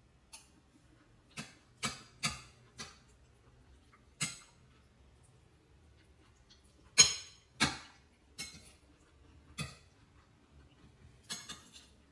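Kitchen utensils and dishes knocking and clicking in about a dozen sharp, irregular strikes, the loudest a pair about seven seconds in.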